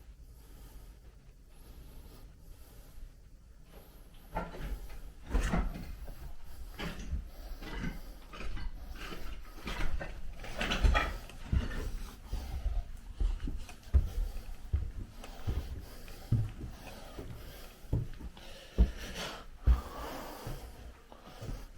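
Irregular footsteps and knocks, with rustling of debris, starting about four seconds in. The loudest are a few single thumps.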